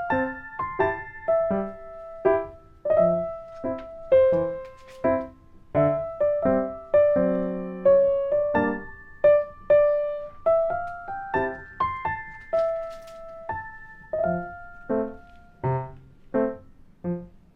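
Background music: a piano playing a slow melody of single notes and chords, each note struck and left to ring out.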